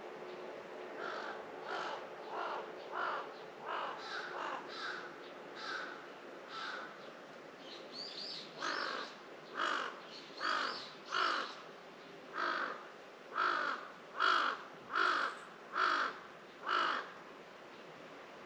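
A crow cawing over and over: a run of fainter, quicker caws for the first several seconds, then after a short pause about ten louder caws roughly one a second.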